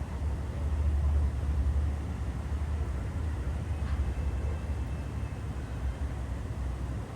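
Steady low outdoor rumble with a soft hiss above it, a little louder between one and two seconds in; a faint short click about four seconds in and a faint thin tone for about two seconds after it. No duck calls stand out.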